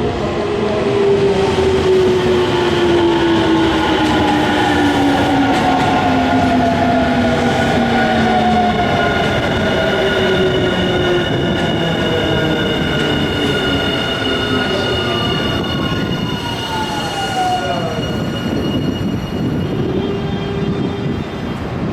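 Nankai electric train rumbling as it slows into the station, its motor whine falling steadily in pitch over several seconds, with steady high squealing tones. Near the end one last whine glides down and the squealing stops, as the train comes to a halt.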